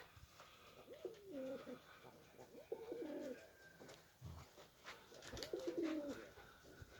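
Domestic pigeons cooing nearby: three short, low cooing phrases, about a second in, around three seconds and around six seconds.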